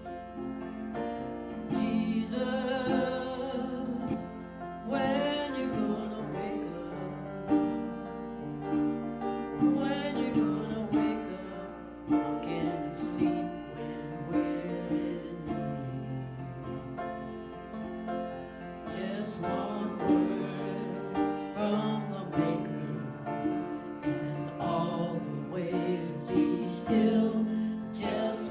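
Slow worship song: piano accompaniment with a solo voice singing over it.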